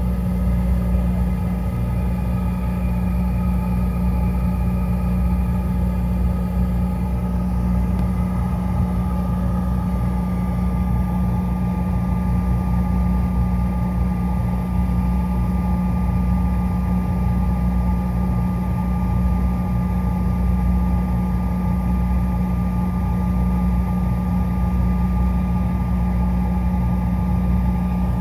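Cabin of a CRJ900 regional jet with its rear-mounted GE CF34 turbofan engines running after start-up: a steady low drone with thin, constant whining tones over it. The highest whine fades out several seconds in.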